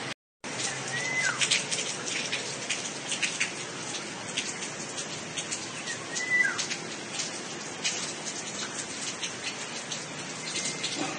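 Steady rain with many separate drops hitting a surface, while a bird gives the same short call twice, about five seconds apart: a high note that falls sharply in pitch. The sound cuts out for a moment just after the start.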